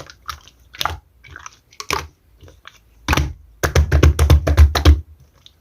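Clear slime being squished and pressed by hand, giving sticky clicks and pops. A dense run of squelching clicks comes a little past halfway, then it goes quiet just before the end.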